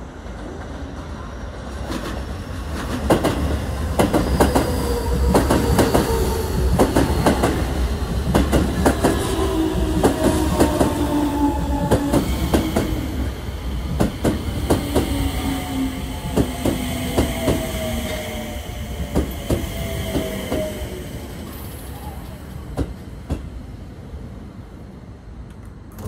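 Keio Line electric train rolling in to stop, its wheels clacking over rail joints and points in a long run of sharp clicks. Under the clicks, a motor whine falls steadily in pitch as the train slows. It builds about two seconds in and fades near the end.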